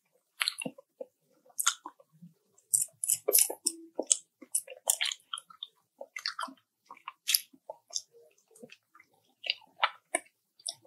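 Close-up mouth sounds of a person chewing balut (boiled fertilized duck egg): irregular soft clicks and smacks.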